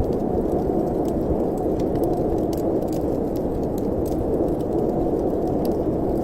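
Fireplace fire with scattered light crackles and pops over a steady, low wind noise.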